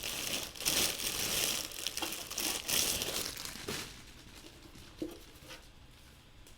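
Crinkling and rustling as something is handled, for about four seconds, then a quieter stretch with a few light clicks.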